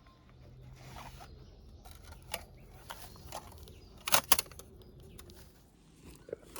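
Handling noises: scattered light scrapes and clicks, with a sharp double click about four seconds in.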